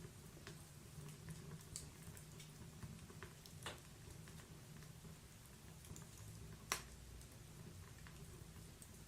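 Faint wood fire burning in a fireplace: a low, even rumble of flames with scattered sharp crackles and pops, the loudest pop about two-thirds of the way in.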